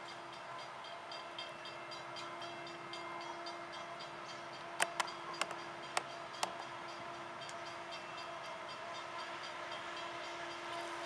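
Florida East Coast freight train heard at a distance: a faint, steady hum with a held tone, under a light regular ticking. About five seconds in come five sharp clicks in quick succession.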